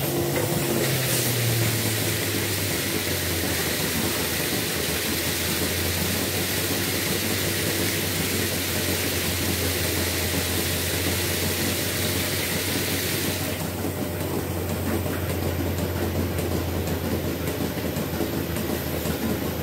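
Milking-shed machinery running steadily with a constant low hum. A hiss joins it about a second in and stops about two-thirds of the way through.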